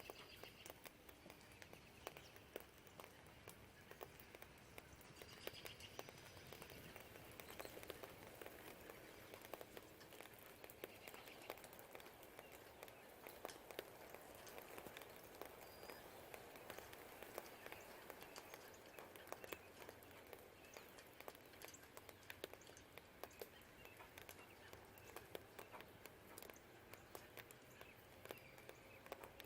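Quiet steady rain with many small drips pattering close by, and a few faint bird chirps.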